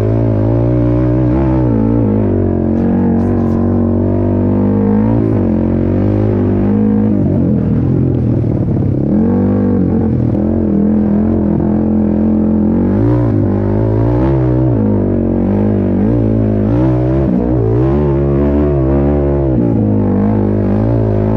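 Racing ATV (quad) engine revving hard, its pitch rising and falling over and over as the throttle is worked.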